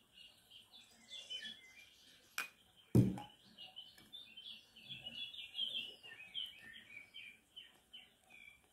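Small birds chirping repeatedly in the background, with a single thump about three seconds in.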